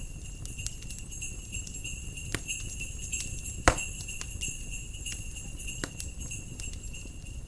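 Jingle bells jingling steadily over a crackling wood fire, with scattered sharp snaps and one loud pop a little past halfway. A low rumble runs underneath.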